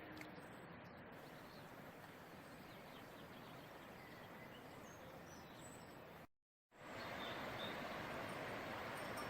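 Steady outdoor background noise with a few faint bird chirps. The sound cuts out completely for a moment about six seconds in, then comes back as a slightly louder steady hiss.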